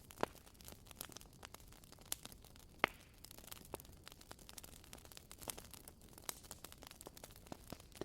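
Burning firewood crackling: irregular sharp pops and snaps over a faint steady hiss, with one louder snap a little under three seconds in.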